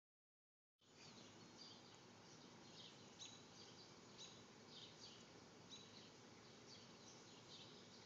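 Small birds chirping, short high chirps about twice a second, over a faint steady outdoor hiss that starts about a second in.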